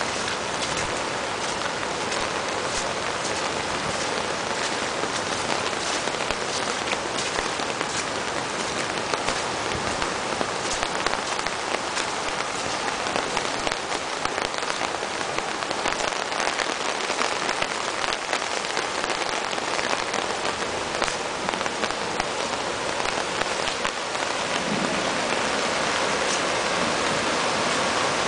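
Heavy rain falling, with many separate drop ticks, over the rush of a flooded creek. Near the end the rushing floodwater grows louder and steadier.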